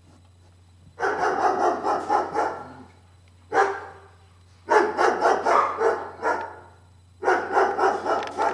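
Small white fluffy dog giving a big bark: four bouts of quick barks in runs, a long run about a second in, a single short bark near the middle, then two more long runs.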